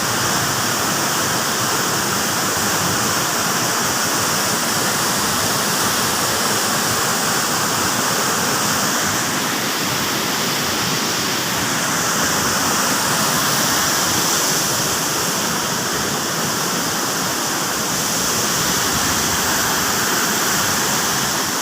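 Waterfall rushing steadily, a dense, even hiss of falling water.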